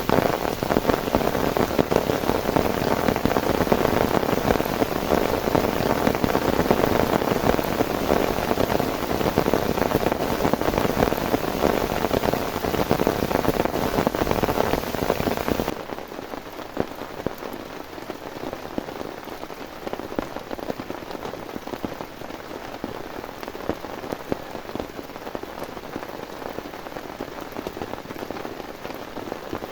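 Heavy rain falling, a dense steady patter of drops. About halfway through it drops suddenly to a quieter, lighter rain.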